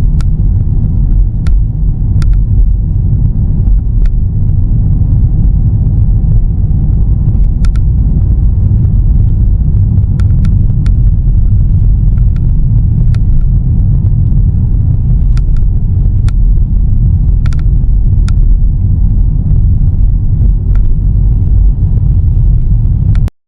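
Car road noise picked up by a dashboard camera inside the cabin: a loud, steady low rumble of tyres and engine at road speed. Scattered sharp clicks, at no regular spacing, come from the loosely seated GoPro rattling on the dash. The sound cuts off abruptly near the end.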